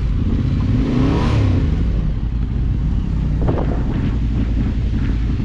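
Off-road vehicle engine running under way, its pitch rising and falling briefly about a second in, with a couple of short knocks about three and a half seconds in.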